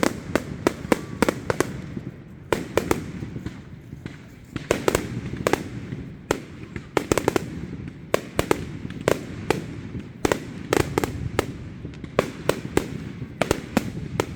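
Fireworks going off in a dense barrage of sharp bangs and cracks, several a second in irregular clusters, over a low rumble.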